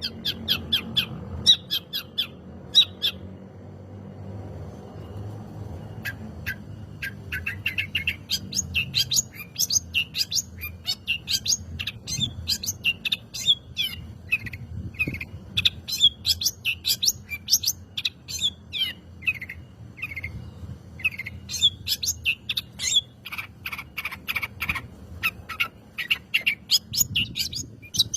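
Long-tailed shrike singing a fast, dense run of high chirping notes. A few scattered chirps are followed by a pause of about three seconds, then the song runs on almost without a break. A low steady hum lies underneath.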